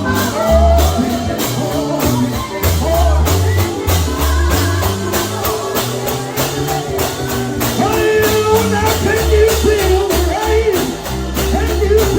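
Live gospel singing with a band: a lead voice over a steady, driving drum beat and heavy bass line.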